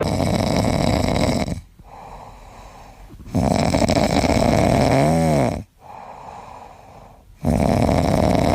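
A sleeping pet snoring: three loud snores, each one to two seconds long, about four seconds apart, with quieter breathing between them.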